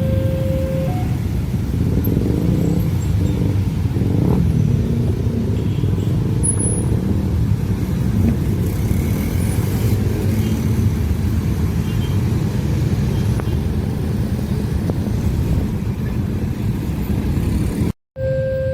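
A long train passing through a level crossing: a steady, loud rumble with a rapid clatter of wheels over the rails. The crossing's two-tone warning signal is still sounding for about the first second.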